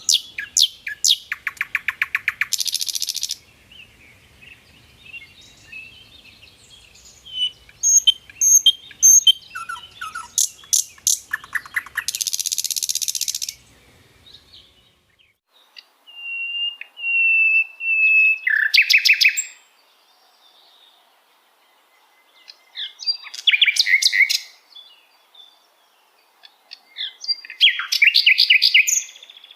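Common nightingale singing in separate phrases with short pauses between them: fast rattling trills and harsh buzzy notes, and about halfway through a run of several pure whistled notes that leads into a rapid trill.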